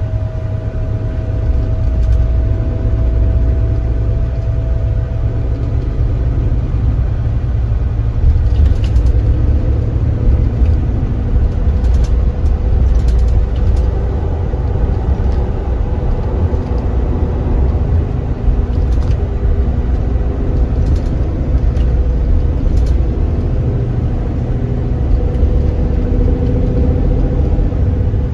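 Kia Granbird Sunshine coach's diesel engine and drivetrain running under way, a steady low rumble with a faint whine above it. The whine fades in the first few seconds and comes back later, and a few light clicks or rattles sound now and then.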